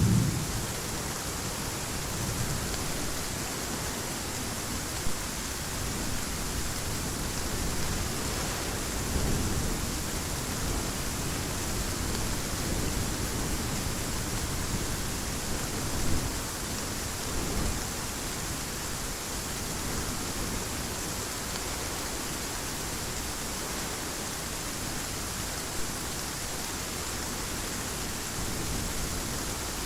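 Steady heavy rain, an even hiss with no break. A low thunder rumble fades out in the first second, and a few faint low swells come and go later.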